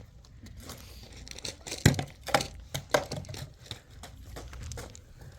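Crinkling and rustling handling noises with a series of sharp clicks and knocks, the loudest a little under two seconds in.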